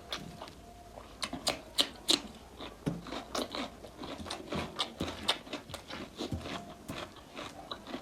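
A person chewing and biting into mutton close to the microphone, with many sharp, irregular wet mouth clicks and smacks.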